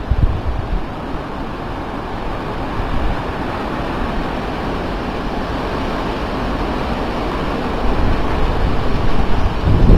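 Strong, gusty Santa Ana wind rushing steadily, buffeting the microphone with low rumbling thumps just after the start and again over the last couple of seconds.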